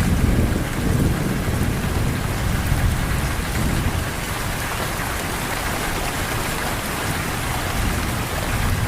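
Steady heavy rain falling, an even hiss of drops, with a low rumble under it in the first half that eases off about halfway through.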